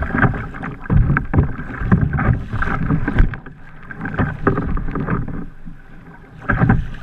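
Water splashing and sloshing around a fishing kayak on the sea, in irregular bursts, with a louder splash near the end.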